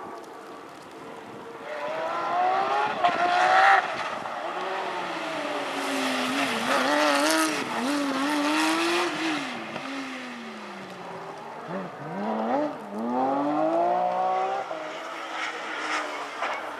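Porsche rally car engine revving hard, its pitch climbing in steps as it accelerates through the gears, then wavering up and down in the middle. About three quarters in it drops and climbs again.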